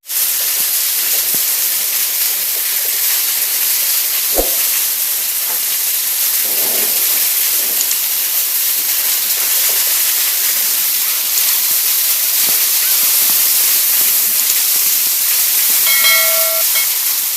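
Heavy rain falling, a steady loud hiss with no let-up. There is a single knock about four seconds in, and a short pitched tone near the end.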